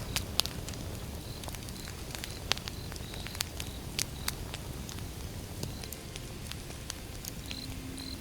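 Burning firewood crackling: irregular sharp pops and snaps, a few louder than the rest, over the steady low rumble of the flames, with a few brief faint high whistles.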